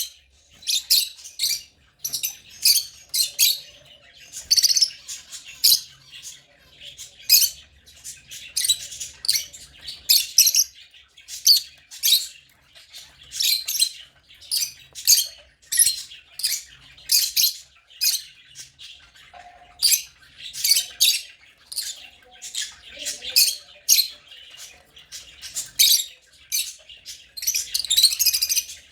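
African lovebirds chirping: shrill, high chirps in quick runs, one burst after another without a break.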